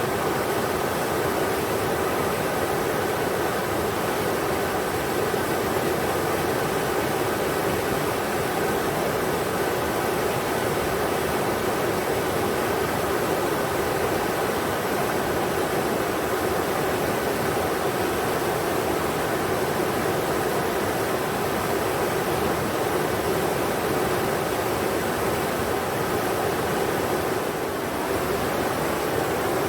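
The Englishman River running: a steady, even rush of water with no breaks or distinct events.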